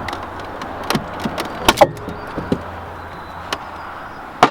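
Sharp clicks and knocks of parts being handled and fitted on a car door, over a steady background hiss and low hum; the loudest pair of knocks comes a little under two seconds in, and another click just before the end.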